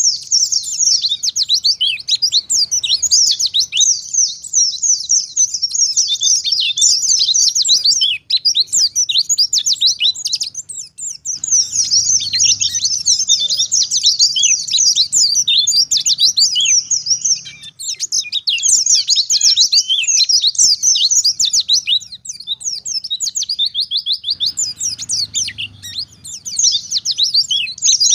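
White-eye (pleci) singing a fast, continuous twittering song of rapid high notes, in long phrases broken by a few brief pauses.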